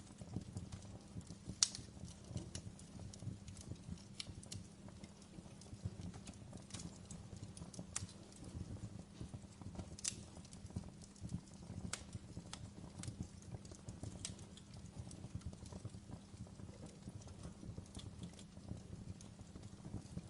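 Wood logs burning in a fireplace, crackling with irregular sharp pops over a low steady rumble. The loudest pop comes about two seconds in, and another strong one about halfway through.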